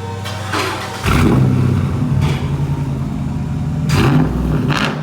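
Car engine accelerating hard, its note jumping suddenly in loudness about a second in and easing off near the end.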